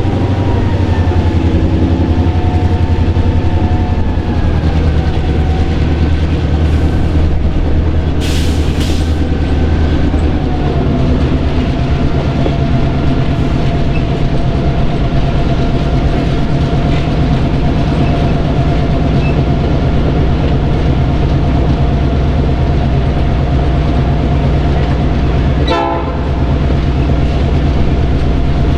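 Diesel locomotive running close by: a steady deep engine rumble with a high whine that holds one pitch, stepping down a little twice in the first ten seconds, and a short hiss of air about eight seconds in.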